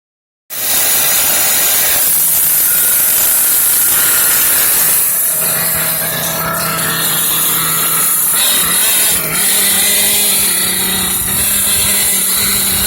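Kyosho KE25 glow-fuel nitro engine of a Mad Force RC truck running at a steady speed with a high, buzzy note, starting about half a second in.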